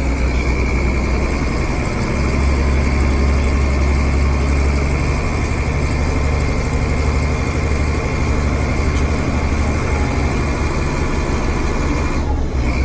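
Heavy vehicle engine running steadily: a deep, even hum with a faint steady whine above it.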